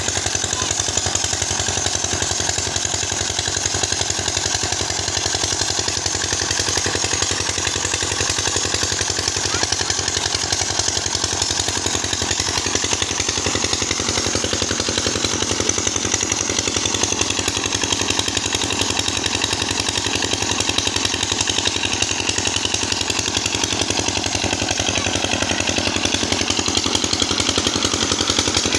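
Small engine running steadily at a constant speed with a fast, even firing rhythm, driving a tube-well water pump.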